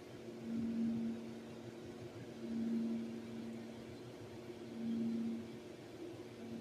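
Jet engines of a Boeing 737-900ER, twin CFM56-7B turbofans, heard as a steady low hum at low power that swells and fades about every two seconds.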